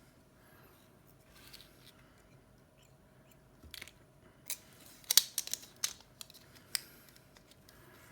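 Small metal repair tools clicking and tapping against iPhone 7 parts: a scatter of short, sharp clicks from about halfway through, densest and loudest a little past the middle.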